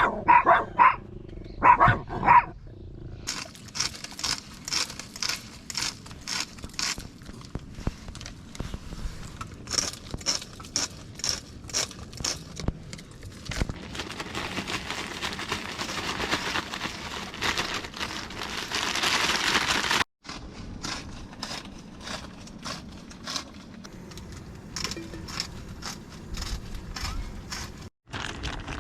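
A dog barking four or five times in the first couple of seconds, followed by a long run of quick, irregular clicks and rustling.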